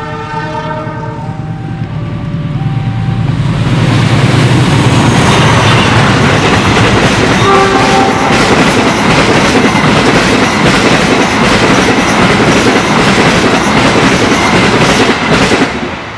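Diesel locomotive blowing its multi-note horn in a few stepped notes for the first three seconds as it approaches, its engine rumble building; then a passenger train passing close at speed, a loud steady rush with rapid clicks of the wheels over the rail joints, falling away sharply near the end.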